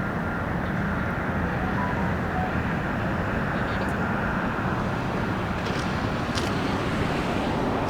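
Steady low hum of running machinery, holding level throughout with no distinct events.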